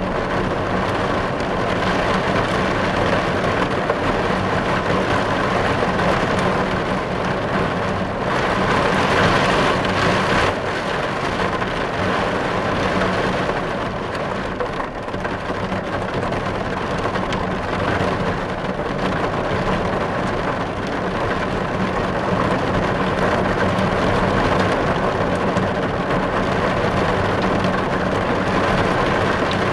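Heavy rain falling on a car's glass, heard from inside the car: a steady dense patter that swells a little about eight to ten seconds in.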